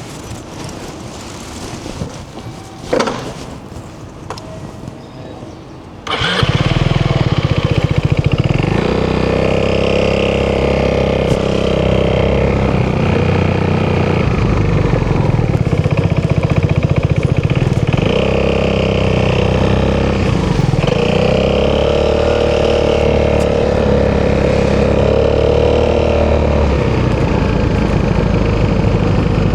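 An Italjet Dragster 200's single-cylinder four-stroke engine, fitted with an Akrapovic exhaust, starts about six seconds in and then idles steadily, its pitch drifting gently up and down.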